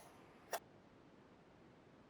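A single short, sharp click about half a second in; otherwise near silence.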